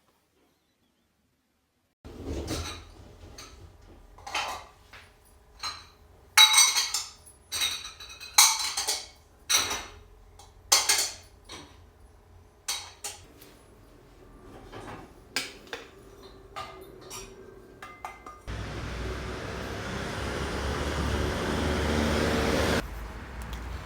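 Dishes and utensils being handled: a string of separate clinks and knocks, some sharp and bright, over about sixteen seconds. Then a steady rushing noise, rising slightly, runs for about four seconds and cuts off suddenly.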